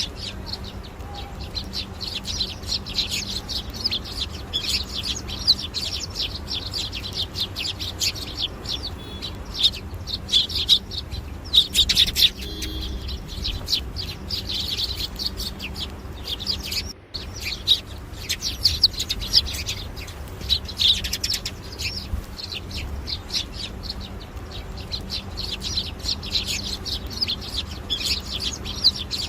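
Many small birds chirping at once: dense, overlapping short high chirps that run without a break, over a steady low hum. The sound cuts out briefly about seventeen seconds in.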